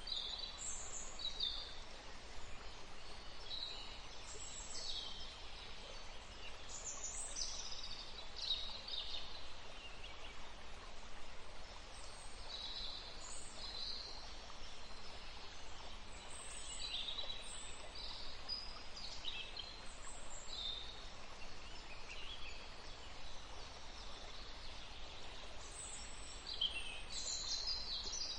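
Birds chirping and singing in many short, high phrases over the steady rush of flowing river water.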